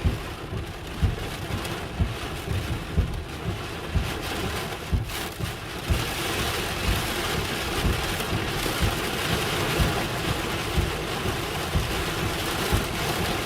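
Heavy rain pelting a vehicle's roof and body, heard from inside, with many irregular low thumps of heavier drops or gusts; the rain's hiss grows heavier about six seconds in.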